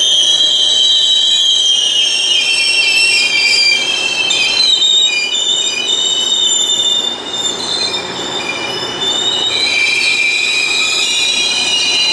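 GO Transit bilevel passenger coaches rolling slowly past, with steady high-pitched metal squealing from their wheels and brakes over the rumble of the train. The squeal is several shrill tones that waver a little.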